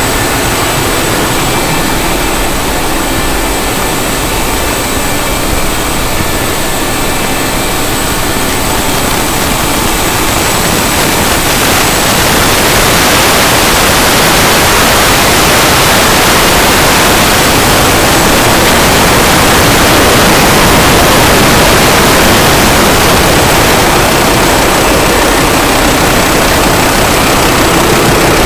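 Loud, steady din of a passenger ship's engine room, its engines and machinery running continuously. About twelve seconds in it grows louder and more hissing.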